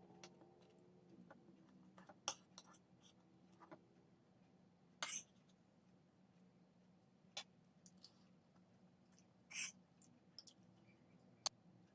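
Near silence in a small room, broken by about six faint, sharp clicks and taps spaced a second or two apart.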